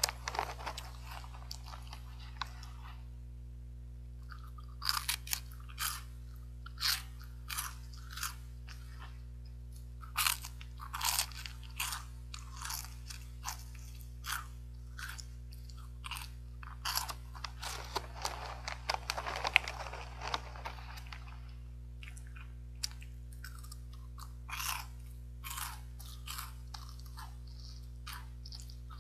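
Crunchy caramel corn and peanut puff snack being bitten and chewed close to the microphone, in bursts of crisp crunches with pauses between. A longer rustling stretch comes a little past the middle, with a low steady hum underneath throughout.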